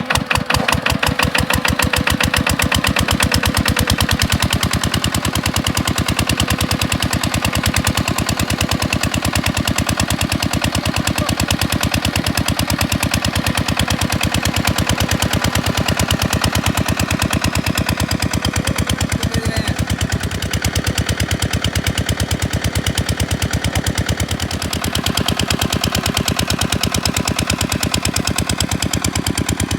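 8 hp single-cylinder diesel pump-set engine that has just caught, picking up speed in the first second, then running steadily with a fast, even chugging beat.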